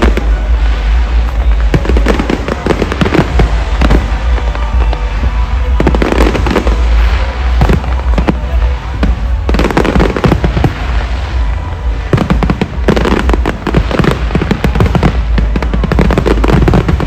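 Fireworks display: clusters of sharp bangs and dense crackling, coming in waves with short lulls between them.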